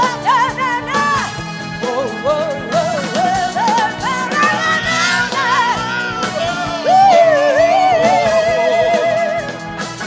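Italian pop band playing a passage without sung words: a lead melody line, wavering with vibrato, over a steady accompaniment.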